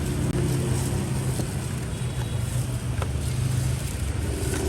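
A motor vehicle's engine running steadily as a low drone amid street traffic noise, dropping away near the end.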